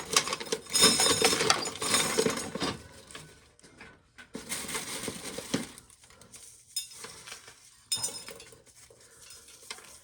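Dried corn kernels rattling as ears of corn are shelled by hand: a dense clatter of kernels for the first couple of seconds, then scattered clicks.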